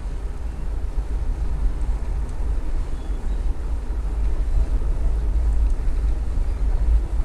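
Steady low wind rumble on the microphone of a bicycle being ridden, with faint road noise.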